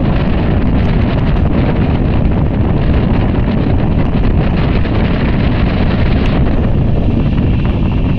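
Wind buffeting the microphone from a moving passenger train's open door, over the steady rumble of the coaches running on the rails. The hiss thins out about six seconds in.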